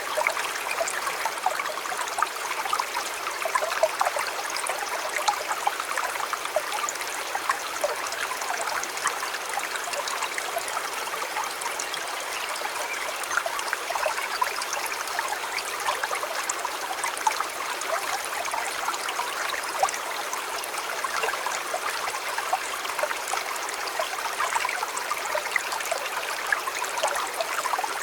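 River water flowing steadily, a continuous rushing with many small quick splashes and little deep rumble.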